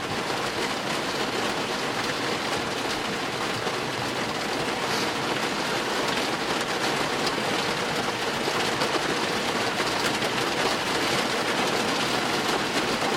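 Heavy rain drumming steadily on a car's roof and windows, heard from inside the closed cabin: a dense, even patter with no letup.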